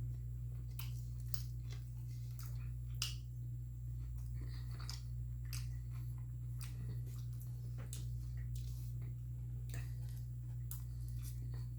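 Close-up chewing of a bite of Burger King's original chicken sandwich: irregular wet clicks and soft crunches, several a second, over a steady low hum.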